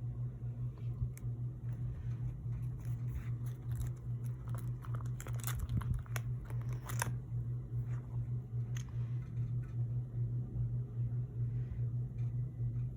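Pokémon cards and their plastic packaging being handled: scattered light crinkles and taps, thickest about five to seven seconds in. A steady low hum sounds underneath.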